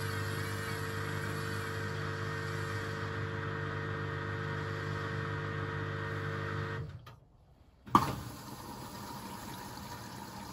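Hoover VisionTech washing machine running with a steady hum. About seven seconds in it stops abruptly for under a second, then a sharp click and a quieter, steadier running sound follow.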